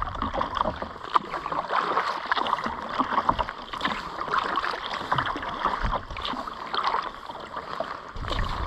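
Kayak paddle blades dipping into and pulling through lake water with repeated splashing and dripping, with low gusts of wind on the microphone now and then.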